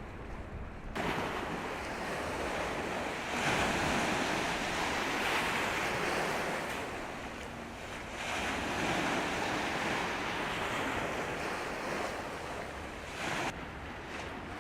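Rushing, splashing sea water with no steady tone. It starts sharply about a second in, swells again about three and a half and eight seconds in, and eases off near the end.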